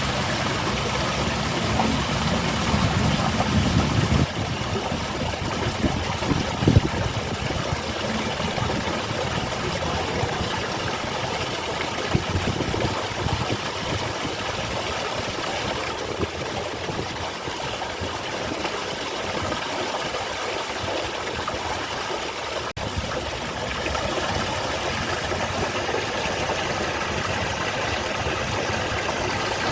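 Small garden waterfall splashing steadily, a constant rushing of falling water, with a low rumble in the first few seconds.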